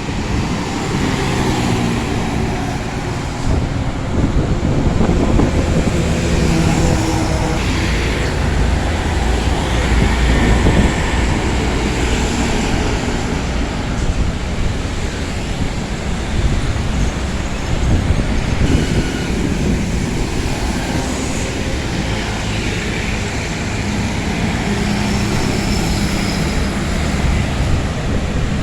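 Large road vehicle's engine running with steady road and traffic noise, its engine note shifting in pitch several times.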